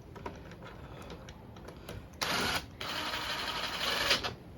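Fastening the screw that holds the plastic engine cover on a push lawn mower: a few light clicks, then a short burst and a longer stretch of rapid mechanical noise from the tool driving the screw.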